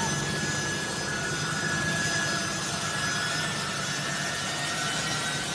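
Jet aircraft engines running, a steady noise with a faint high whine.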